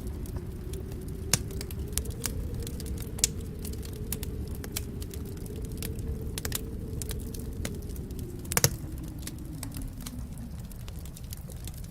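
Wood fire crackling in a fireplace: frequent sharp pops and snaps over the steady low rumble of the flames, with a loud burst of pops about three-quarters of the way through.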